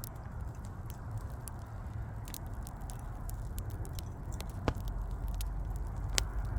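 Wood fire crackling: a stream of small sharp pops and snaps over a low steady rumble, with two louder snaps in the second half.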